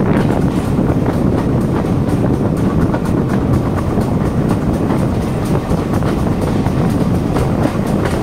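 Passenger carriage of a heritage train rolling along the track: a steady rumble with frequent clicks of the wheels over rail joints, heard from the carriage window.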